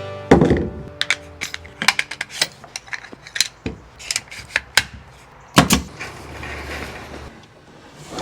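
Irregular clicks, knocks and rattles of building work with tools and materials, with two louder thumps, one about a third of a second in and one about halfway through.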